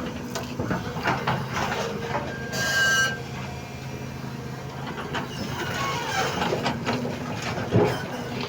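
Doosan 220 hydraulic excavator's diesel engine running steadily, with repeated knocks and scrapes as it works. There is a brief high squeal about two and a half seconds in and a sharper knock near the end.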